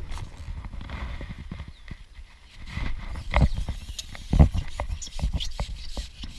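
Irregular knocks and thuds of handling close to the microphone, over a low rumble, with the loudest knocks about halfway through.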